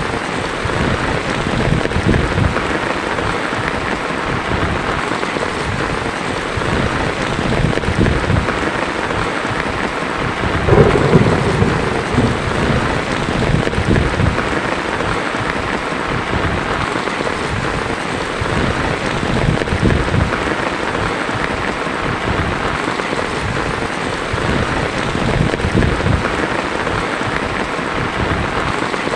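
Heavy rain falling steadily on a tin roof, with thunder rumbling at intervals; the loudest roll of thunder comes about eleven seconds in.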